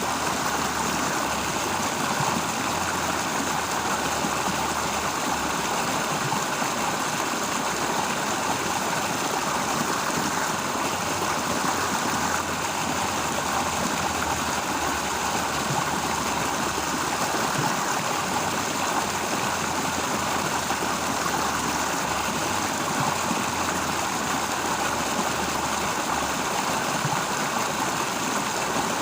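Stream water flowing steadily, a continuous rushing with a low rumble coming and going underneath.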